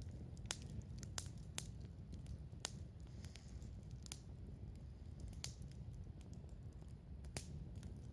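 Wood campfire burning, with sharp crackles and pops at irregular intervals, about seven in all, over a steady low rumble.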